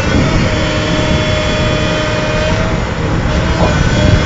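Heavy machine's engine running steadily at high revs, with a steady whine over loud rumbling noise.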